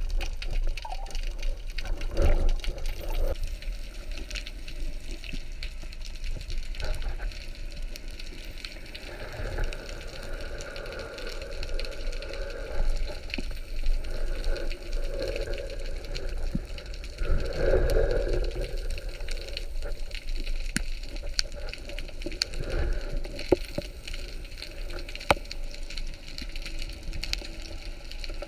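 Underwater sound through a camera housing: a constant crackle of small clicks over a low rumble, with a few swells of water noise, the loudest about two-thirds of the way through.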